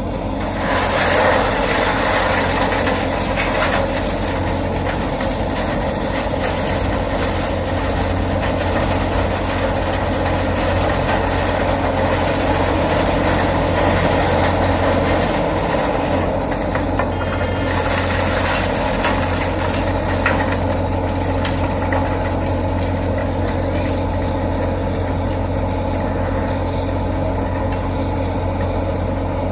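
Asphalt milling machine working under load: its heavy diesel engine runs steadily while the cutting drum grinds up the old road surface and the conveyor pours the millings into a dump truck. The noise gets louder about a second in, and a high hiss is strongest over the first few seconds and again a little past halfway.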